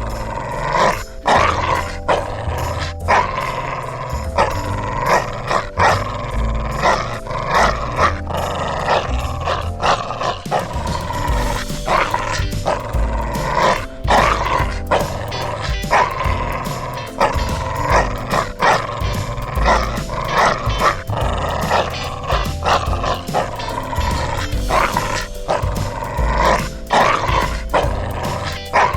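A dog barking repeatedly, over background music.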